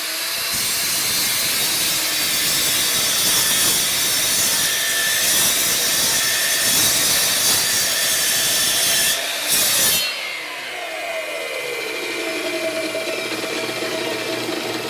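A 12-inch chop saw with a used 60-tooth Mastercraft Maximum blade cutting through wood for about ten seconds, then the blade winding down with a falling whine. The blade is due for resharpening: it burns the wood and is hard to push through.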